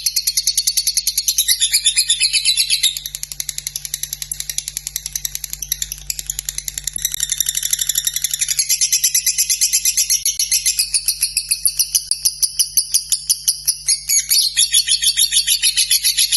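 Lovebird in a long, unbroken run of rapid chattering, a fast even string of high, sharp pulses (the 'ngekek' song that keepers prize for its length). It is softer for a few seconds in the middle, then comes back up.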